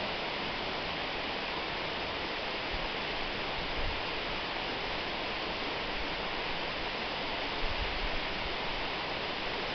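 Waterfall rushing: a steady, even roar of falling water with a few faint low thumps of wind on the microphone.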